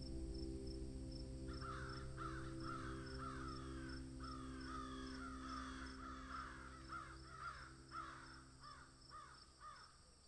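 A bird calling in a rapid run of short, falling calls that thin out and fade near the end, over a steady low hum of held tones.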